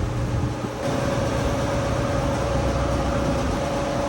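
Steady mechanical hum, with a higher steady tone joining in about a second in.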